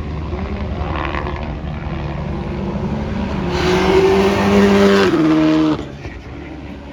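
Rally car approaching and passing at speed, its engine held on a loud steady note, then changing pitch in quick steps before the sound drops off suddenly near the end.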